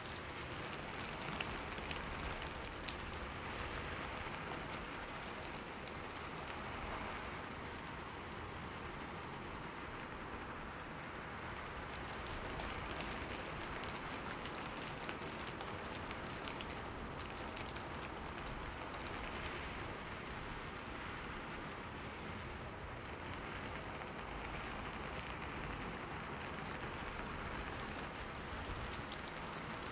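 Steady rain falling on forest leaves, a continuous patter of many drops.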